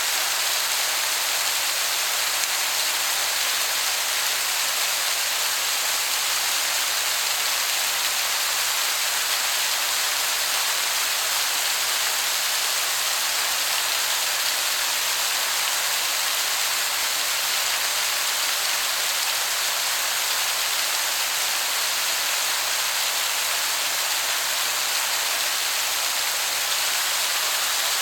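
Waterfall heard from some distance: a steady, dense hiss of falling water that sounds like heavy rain.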